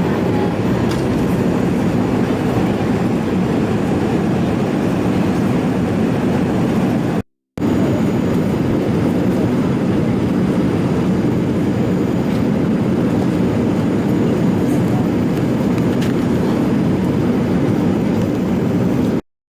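Steady rushing cabin noise of a Boeing 787 airliner in flight, broken twice by a brief cut to silence, about seven seconds in and near the end.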